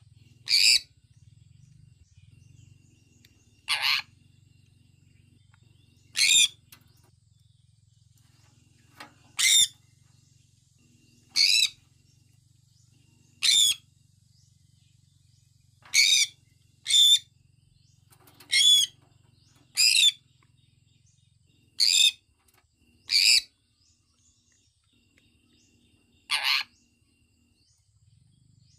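Sun conure chirping: about thirteen short, loud, high-pitched calls, spaced irregularly one to three seconds apart, over a faint low hum.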